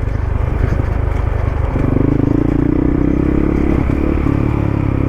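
Dual-sport motorcycle engine running while riding, a steady engine note that strengthens and changes pitch slightly about two seconds in.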